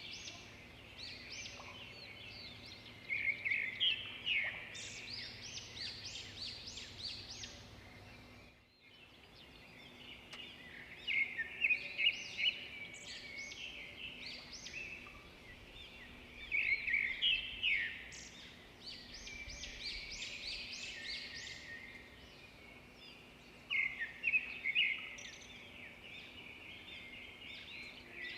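A chorus of songbirds chirping and trilling, with louder bursts of song every few seconds and a brief break about a third of the way through.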